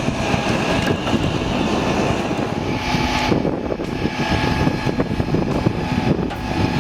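A large vehicle's engine running as a steady, noisy drone, with a faint steady whine over it.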